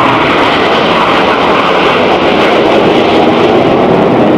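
Loud, steady jet noise from the Red Arrows' BAE Hawk T1 jets as they fly a low display manoeuvre.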